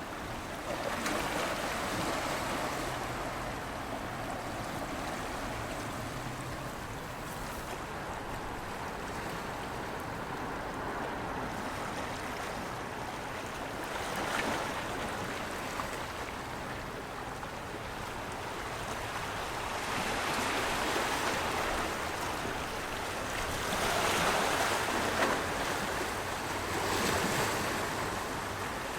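Surf: waves washing in as a steady rush that swells louder several times, most strongly about twenty and twenty-five seconds in.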